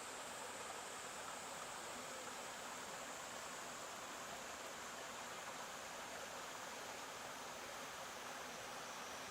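Stream water flowing, a steady, even rushing hiss with no breaks, and a faint thin high tone held above it.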